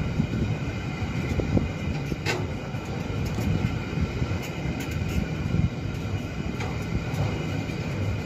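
Freight train of loaded car-carrier wagons rolling past close by: a steady rumble of wheels on rails with a few sharp clicks scattered through.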